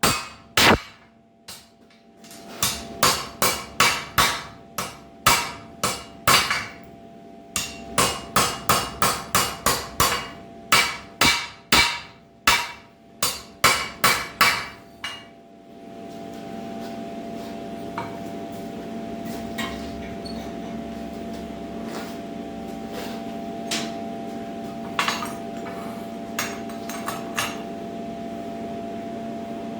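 Hammer blows on hot square steel bar over an anvil during hand forging: a long run of sharp, evenly paced strikes with a couple of short pauses. About halfway through the blows stop, leaving a steady hum with a few light knocks.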